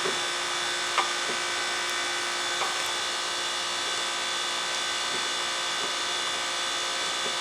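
A steady background hum made of several fixed tones over a light hiss, with two faint clicks, one about a second in and one about two and a half seconds in.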